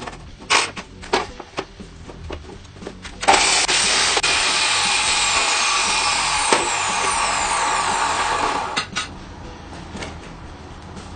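A few sharp knocks and clicks, then a power tool runs loudly and steadily for about five seconds and stops.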